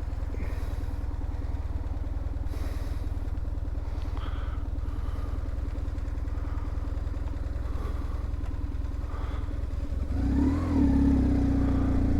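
BMW R1150GSA motorcycle's boxer-twin engine running steadily, growing louder about ten seconds in.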